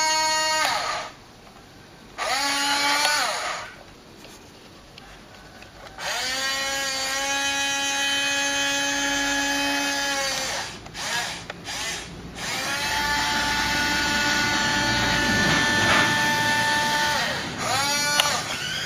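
Electric motors and gearboxes of a 1:14 Hobby Engine radio-controlled wheel loader whining in about five separate runs, the pitch rising as each starts and falling as it stops. The two longest runs last about four and five seconds.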